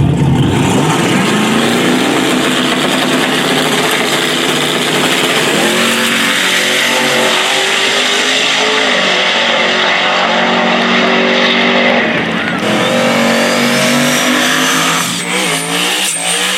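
Drag race car engines revving hard at high power, their pitch climbing and then dropping back about six and twelve seconds in. The sound falls away right at the end.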